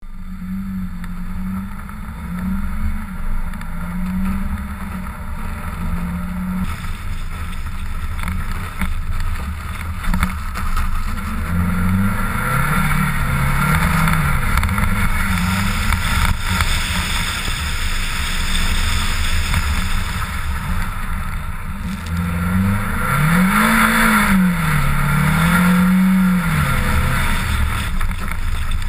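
Mitsubishi Lancer Ralliart's engine under hard driving on an ice road, its revs climbing and dropping again and again as it accelerates and shifts, loudest a little after the middle. A steady rushing noise runs underneath, heard from a camera mounted outside the car.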